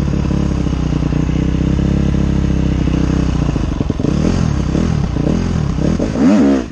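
Off-road motorcycle engine running steadily, then revved repeatedly in rising and falling bursts, with the biggest rev near the end cut off sharply. The tyre is finding no grip.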